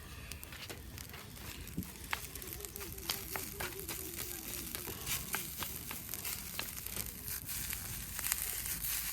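Food frying in a pan over a wood campfire: a steady sizzle with many sharp crackles and pops, the hiss growing louder near the end.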